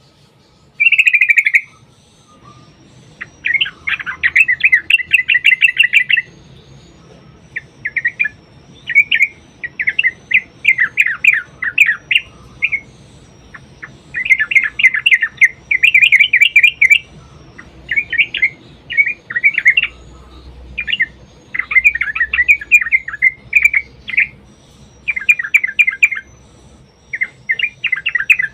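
Yellow-vented bulbul (trucukan) singing in repeated bursts of fast, bubbly chattering phrases, each a second or two long with short pauses between. This is the long rolling "ropel" song used as a lure to set other bulbuls calling.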